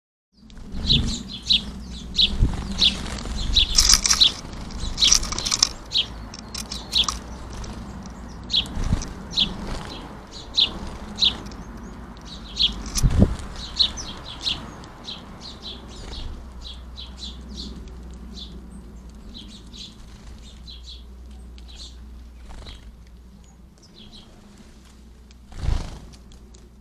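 House sparrows chirping at a garden feeder: many short, quick chirps, busiest in the first half and thinning out later, with a few dull thumps of birds landing or flapping.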